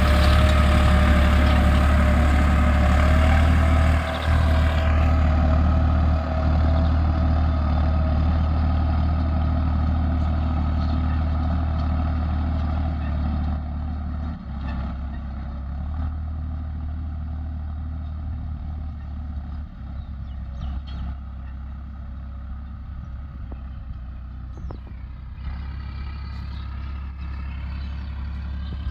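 Tractor diesel engine running hard at full throttle under load, a steady low drone that grows gradually fainter over the span.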